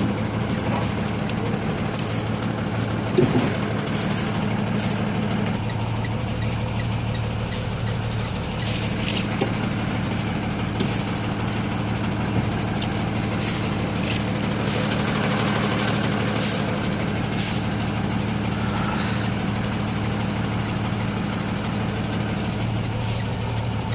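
Diesel box truck engine running steadily at low speed while the truck reverses slowly over a dirt road. Short, irregular scratchy sounds come and go over it throughout.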